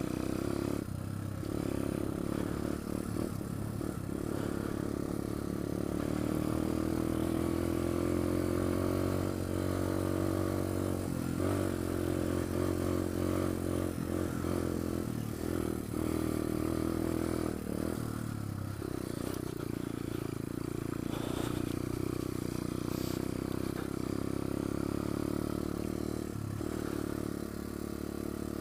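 Pit bike's small single-cylinder four-stroke engine running under way on a trail, its note rising and falling with the throttle, with clattering knocks from the bike over rough ground.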